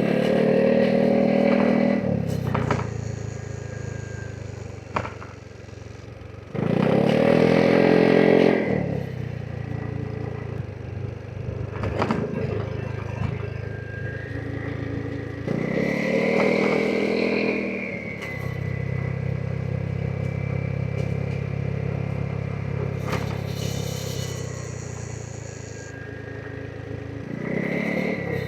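Vespa GTS 300 SuperSport scooter's single-cylinder engine pulling hard in several surges, the engine note rising each time, then easing back to a steadier, lower note between them.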